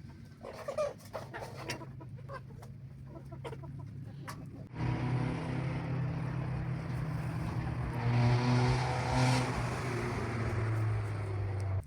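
Chickens clucking amid scattered clicks, then about five seconds in a loud steady machine hum starts suddenly and drowns them out, cutting off abruptly near the end.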